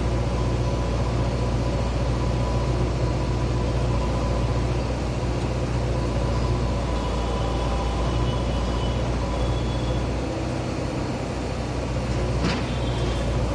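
JCB earthmover's diesel engine running steadily while it digs, with a single sharp knock near the end.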